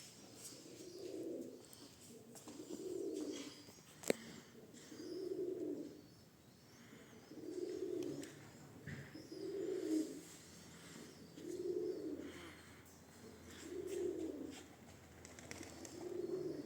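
Domestic pigeon cooing over and over, about one coo every two seconds, with a single sharp click about four seconds in.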